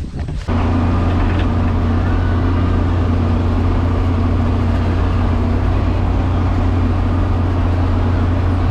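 John Deere tractor engine running steadily, with a deep, even hum that cuts in suddenly about half a second in.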